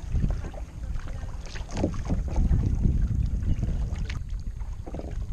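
Wind rumbling on the microphone while kayaking, with scattered small splashes and knocks from the kayak and paddle; the rumble grows louder about two seconds in.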